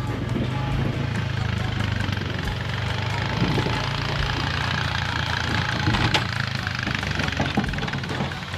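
An engine idling steadily, with a sharp knock about six seconds in.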